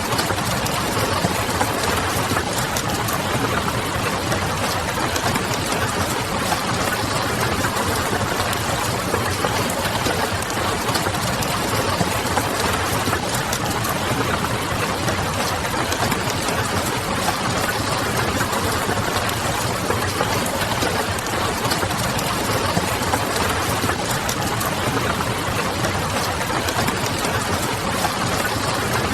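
Rain pattering and a wood fire crackling, blended into one steady hiss, with a low city hum underneath.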